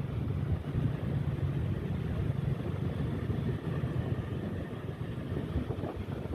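Motorcycle riding along with its engine running, a steady low rumble mixed with road and traffic noise.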